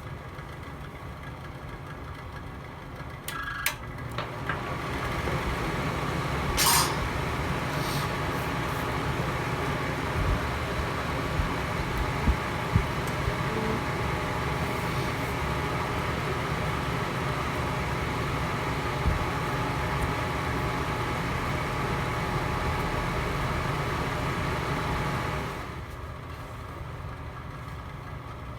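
Fire burning in a home fireplace: a steady rushing noise with scattered crackles and sharp pops. The rushing grows louder a few seconds in and falls back near the end.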